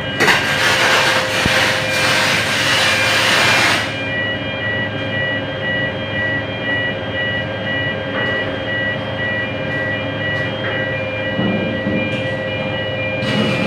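Aluminium MIG welding arc from a Kemppi FastMig welder: a dense hiss lasting about four seconds just after the start, and another starting near the end. Under it runs a steady machine hum with a few fixed tones.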